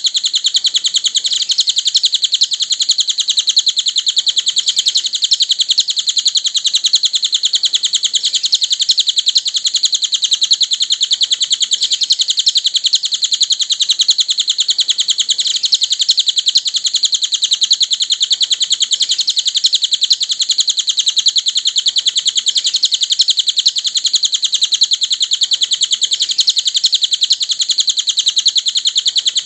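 Cililin bird song: a continuous stream of very rapid, high chirps with no pauses, as used for masteran recordings to train captive songbirds.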